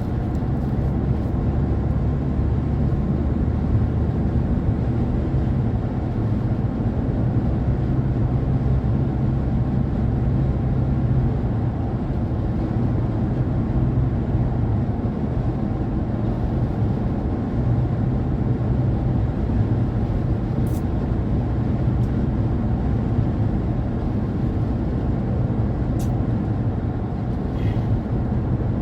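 A car driving, with a steady low rumble of road and engine noise. There are two faint, brief ticks, about two-thirds of the way in and again near the end.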